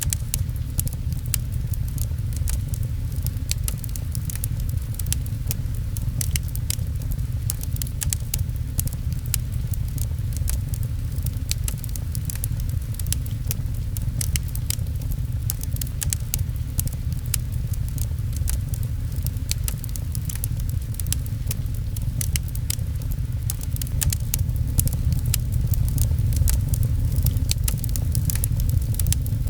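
Fireplace crackling, with frequent sharp pops over a steady low rumble, and rain pattering.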